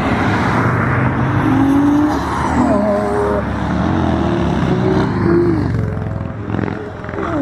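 Car engine accelerating hard while driving away, its pitch rising and dropping several times as it revs through the gears.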